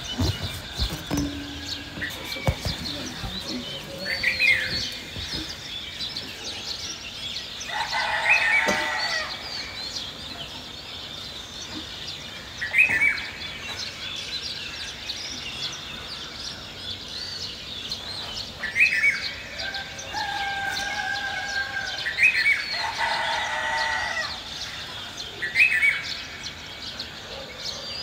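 Rural village ambience: small birds twitter and chirp throughout, while domestic fowl call at intervals, several short calls and a few longer ones lasting about a second.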